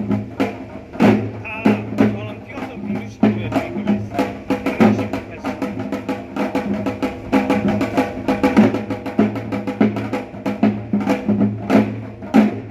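Drum-led percussion music with quick, dense strikes over a steady low tone, in the style of Korean traditional gut percussion.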